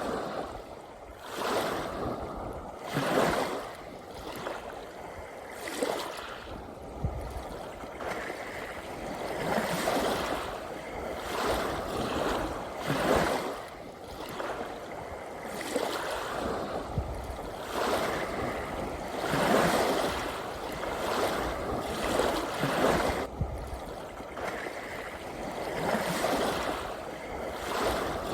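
Small sea waves washing in one after another, a rush of surf every couple of seconds.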